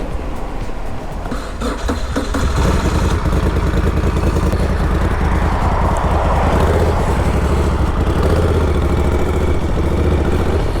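Moto Guzzi Griso 1200's V-twin engine running, growing louder and fuller about two and a half seconds in after a few light clicks.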